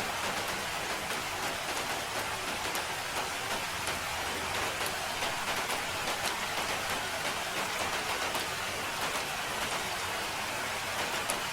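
Steady rainfall, a constant hiss of rain with many small drop ticks scattered through it.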